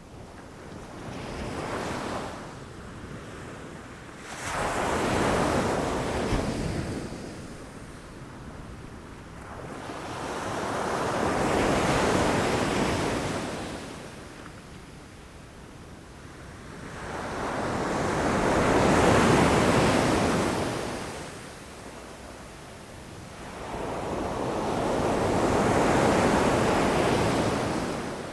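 Ocean waves crashing against rocks, each one building to a rush and draining away: a small surge near the start, then four large ones about every six to seven seconds.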